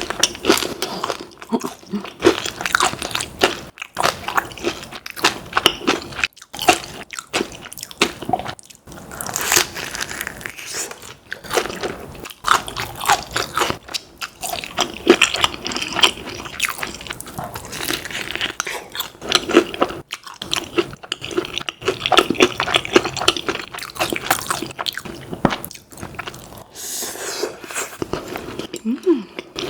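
Close-miked eating: repeated crunchy bites into crisp fried chicken and wet chewing, in an irregular run of crackles throughout.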